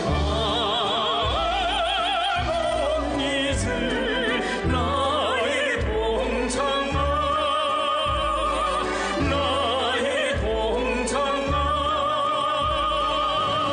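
A song with a singer holding long notes with wide vibrato, in an operatic style, over a steady bass accompaniment.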